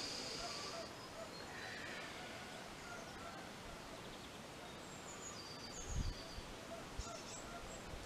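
Faint bird chirps, short and high-pitched, over a quiet background hiss, with a low thud about six seconds in and another at the end.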